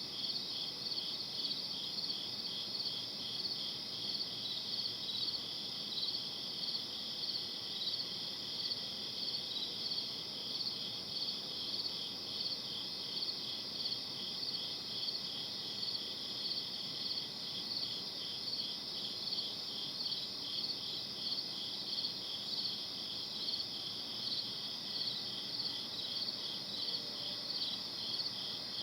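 Night insect chorus, crickets chirping: a continuous high trill with evenly repeated chirps, steady throughout.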